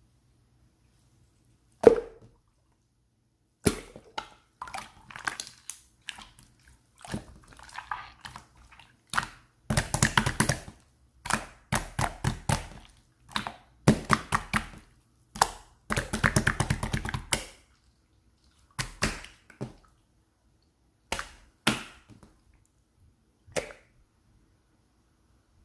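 Irregular close taps, clicks and short scraping sounds, with a dense run of rapid ticks about two-thirds of the way in.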